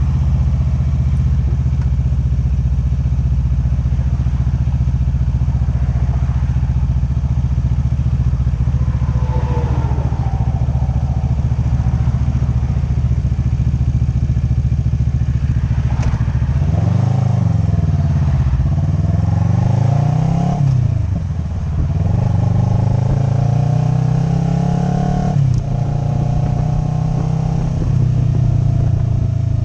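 Motorcycle engine holding a steady low note, then, about two-thirds of the way in, its pitch repeatedly rising and dropping as the bike accelerates and shifts through gears.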